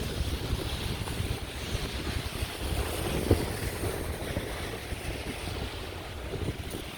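Wind buffeting the microphone over the steady hiss of heavy rain on a city street, with one short knock about three seconds in.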